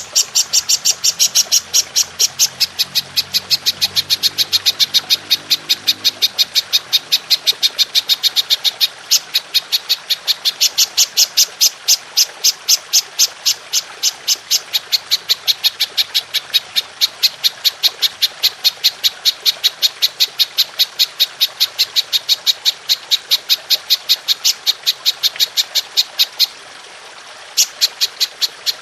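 Belalang emas (golden grasshopper) calling in a long unbroken run of rapid, evenly spaced high chirps. It pauses for about a second near the end and then starts again, over a steady trickle of water.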